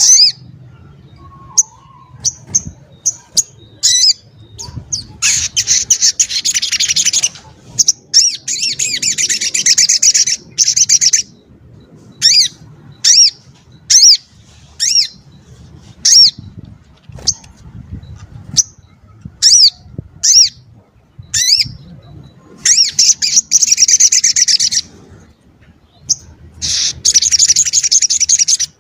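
Sogon ontong, a small songbird, calling loudly: sharp high falling chip notes repeated one after another, broken by several long, fast, rattling trills lasting two to three seconds each.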